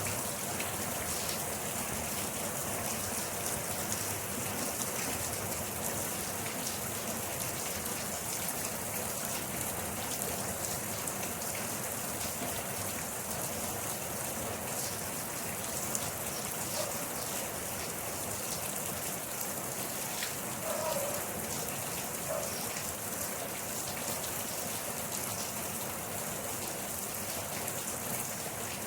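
Steady rain falling, a dense even hiss with many small drop ticks on a hard surface. A faint short chirp shows up about two-thirds of the way through.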